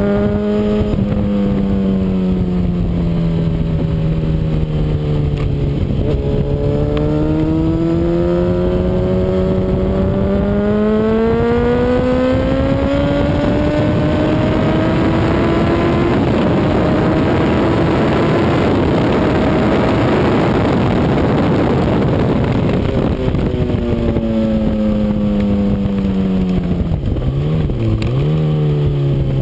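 Sport motorcycle's inline-four engine at full throttle on a racing circuit. It pulls for a long stretch with the pitch rising slowly, while loud wind rush builds at speed. Near the end it drops off the throttle with quick downshift blips and settles at a lower engine speed.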